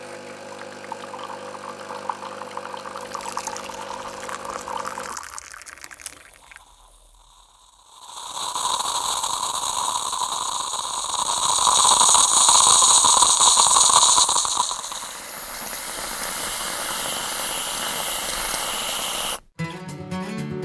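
Coffee machine running: a steady hum for about five seconds, then after a short pause a loud hissing gush of water and steam that eases to a softer hiss. Music comes in near the end.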